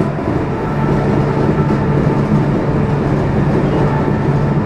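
Meitetsu limited express electric train running, a steady rumble of rail noise with a faint low hum.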